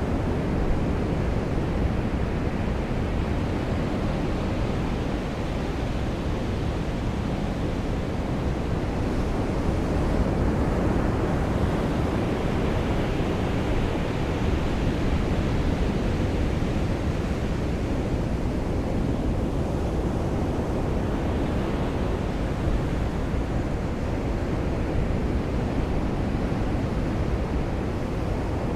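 Ocean surf washing on a beach in the rain: a steady, dense wash of noise that swells gently now and then.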